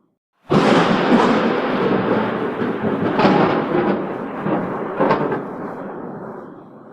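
Thunder: a sudden loud crack about half a second in that rolls on as a long rumble, with two further sharp cracks about three and five seconds in, slowly fading.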